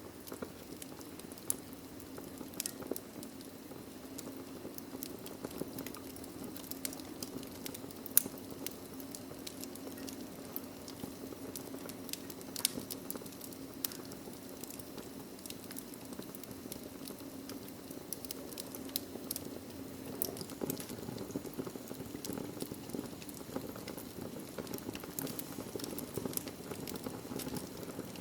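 Wood fire burning in a fireplace: a steady low rushing with irregular sharp crackles and pops from the logs, two of them louder at about 8 and 12 seconds in.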